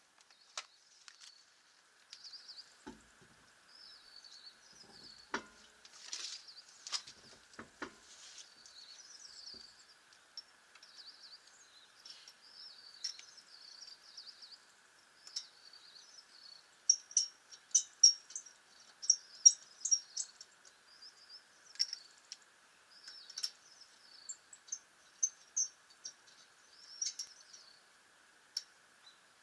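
Small birds chirping and twittering over a faint steady hiss, the chirps coming thickest and loudest in the second half. A few sharp clicks and knocks sound in the first several seconds.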